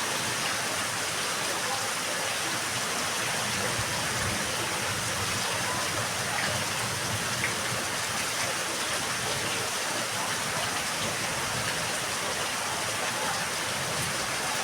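Steady rain falling on a yard, a constant even hiss of drops hitting the ground and surfaces.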